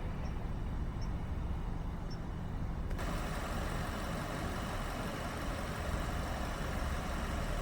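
Steady low rumble of vehicle noise, with a broad hiss that comes in abruptly about three seconds in.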